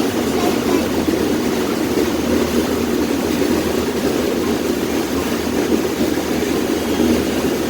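A passenger boat's engine running steadily, a loud even drone.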